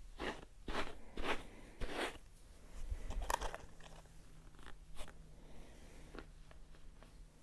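Close-miked ASMR scratching strokes: four short scratches in the first two seconds, then quieter scraping with light clicks.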